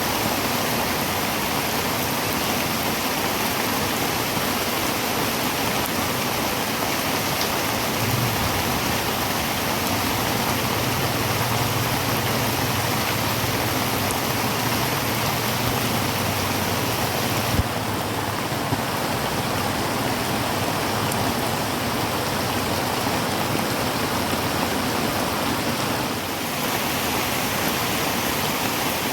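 Heavy rain falling steadily on a tin roof, a dense even hiss. A low rumble sits underneath for several seconds in the middle, and there is one sharp click just past halfway.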